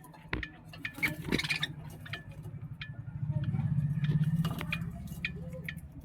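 Pet budgies chirping in short calls amid small clicks and scratches, over a low hum that swells about halfway through.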